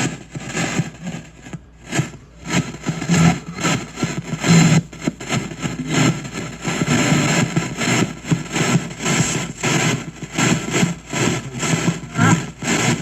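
Spirit box rapidly sweeping radio stations, played through a noise reducer into a shop radio speaker: a continuous choppy hiss of static broken into short bursts several times a second.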